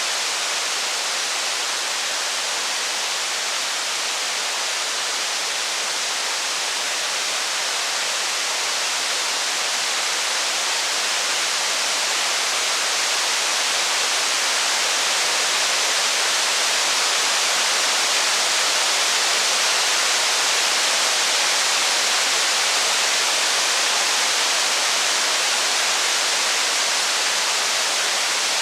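Steady, heavy rain, an even hiss with no single drops or crackles standing out, growing a little louder about halfway through.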